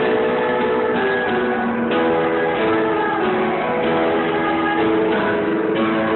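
Music with strummed guitars playing held chords that change about once a second.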